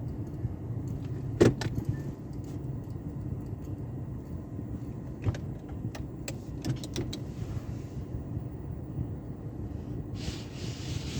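Sonny's car wash tunnel equipment running: a steady low rumble with sharp clunks, the loudest about a second and a half in and a cluster a few seconds later, and a hissing burst near the end.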